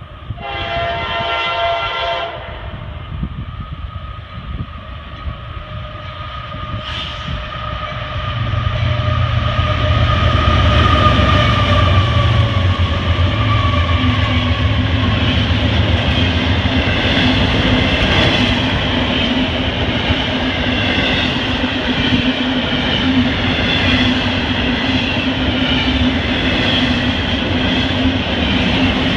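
A CSX freight train's lead diesel locomotive sounds one horn blast about two seconds long. Its diesel locomotives then rumble past, followed by double-stack container cars rolling by with steady wheel and rail noise.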